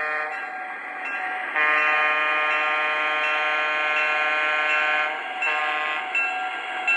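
MTH Propane Turbine model locomotive's sound system blowing its horn: a short blast at the start, one long blast of about three and a half seconds, then a short one, over the steady running of the train.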